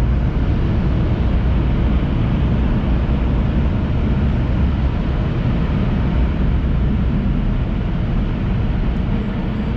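Tunnel car wash air dryers blowing on the car, heard from inside the cabin: a loud, steady rush of air with a deep rumble underneath, easing slightly near the end.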